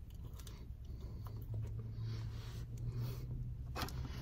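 Faint chewing of a breaded mozzarella stick, with a few soft mouth clicks over a low rumble and a steady low hum from about a second and a half in.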